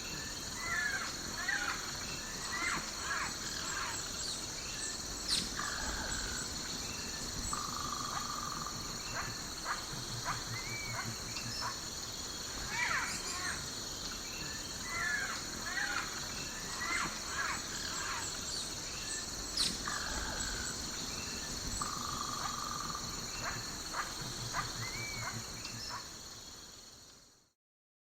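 Daytime nature ambience: many bird chirps and calls over a steady high-pitched insect chorus. It fades out near the end.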